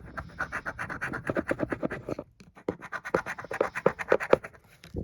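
Scratch-off lottery ticket being scratched with quick repeated strokes, pausing briefly about halfway through before resuming.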